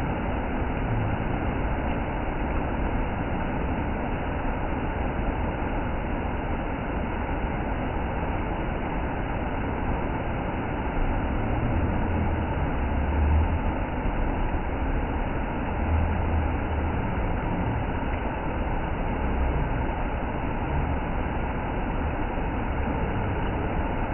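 Steady rushing roar of a waterfall, an even wash of noise with a deeper rumble that swells now and then.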